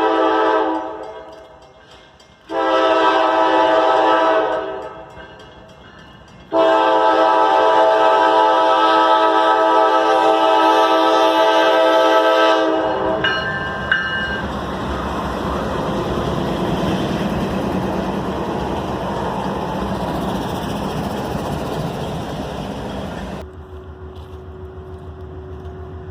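Diesel locomotive air horn sounding three blasts, the last one long, followed by the train passing with a steady rumble of engine and wheels. Near the end the sound drops suddenly to a quieter steady low hum.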